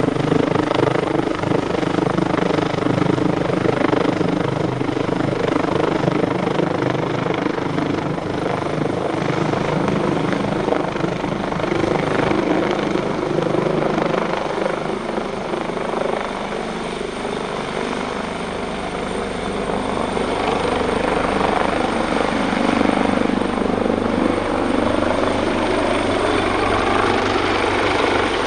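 AW139 helicopter's two Pratt & Whitney Canada PT6C turboshaft engines and five-bladed main rotor running, with a thin high turbine whine that grows stronger near the end. The sound dips slightly in loudness a little past the middle.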